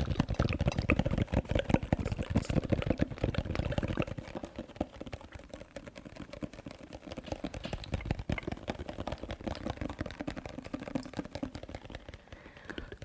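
Rapid, dense ASMR clicking and tapping, close to the microphone. The first four seconds or so are louder and heavier, with more thud in them, and then the clicks go softer.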